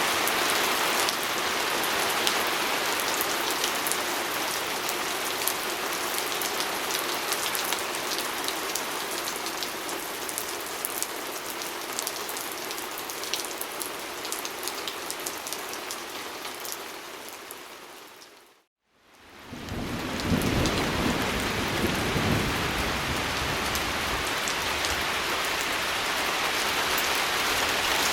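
Steady rain on a window glass, with scattered sharp drop ticks. About two-thirds of the way through it fades out to silence for a moment and fades back in, joined by a low rumble of distant thunder for a few seconds.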